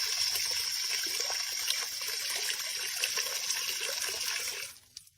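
Steady rush of running or spraying water that stops abruptly near the end.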